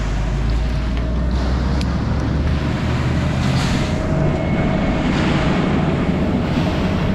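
Concrete truck's diesel engine running steadily; its note rises about three seconds in.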